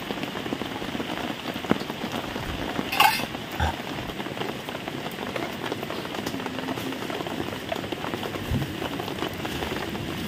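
Steady hiss of rain, with a couple of sharp clicks about three seconds in.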